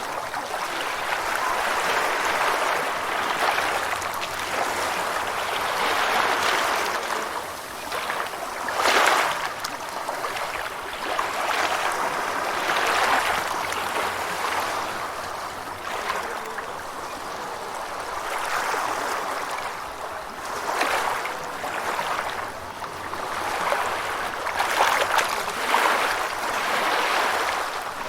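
Gentle ocean waves washing ashore: a hiss of water that swells and eases every few seconds, with stronger surges about a third of the way in and near the end.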